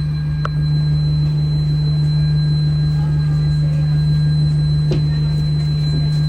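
Steady hum inside an Alexander Dennis Enviro200 bus, a strong low drone with a thin constant high whine over it, the "vacuum cleaner" sound that the uploader thinks comes from the air-conditioning cooling fan. Two faint clicks, about half a second in and near five seconds.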